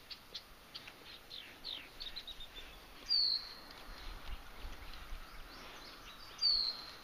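Songbirds calling: quick series of short high chirps and trills, with two louder, short downslurred whistles about three seconds apart.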